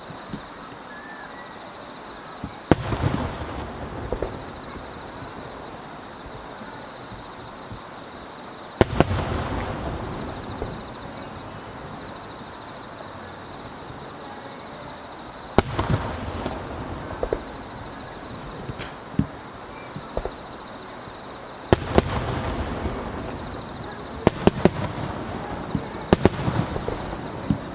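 Aerial firework shells bursting: sharp bangs about every six seconds, coming closer together near the end, each followed by a spell of crackling.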